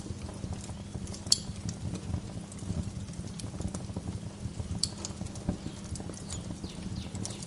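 Wood fire crackling in a fireplace: a steady low rumble of burning logs with a dense run of small irregular crackles. Two sharper pops stand out, about a second in and again near five seconds.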